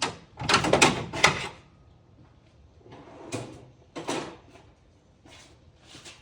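Hand tools being handled: a cluster of scraping, rattling clatters in the first second and a half, then two shorter ones around three and four seconds in.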